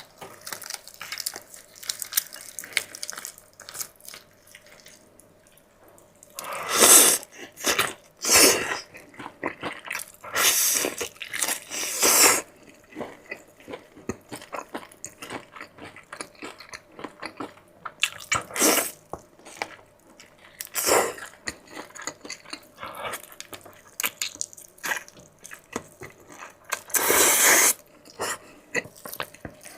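Close-miked eating sounds from a person chewing food, with a steady run of small wet mouth clicks. Several louder noisy bursts of about half a second to a second and a half break through, the longest run coming about ten to twelve seconds in.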